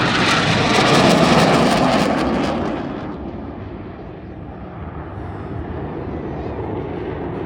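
T-38 Talon jet trainers, with their twin J85 turbojets, making a flyby: a loud jet rush that peaks about a second in and fades after about three seconds to a low distant rumble.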